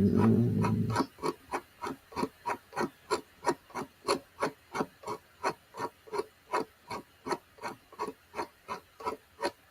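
Sharp, evenly spaced clicks, about three a second, running steadily like a fast tick, with a brief louder low sound in the first second.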